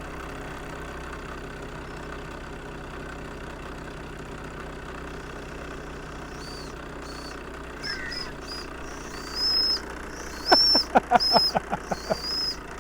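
Live stationary model steam engine running with a steady hiss, its small steam whistle blown in a series of short, high-pitched toots from about halfway through, a few held a little longer.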